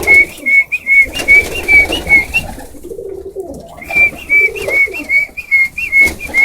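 Tippler pigeons cooing in the coop, with two loud runs of short, high chirping notes at about four a second: one at the start and one from about four seconds in.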